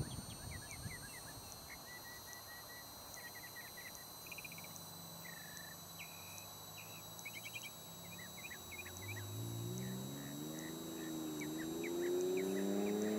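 Small birds chirping and twittering, over a faint steady high whine. In the last few seconds a low droning sound comes in, rising in pitch and becoming the loudest thing heard.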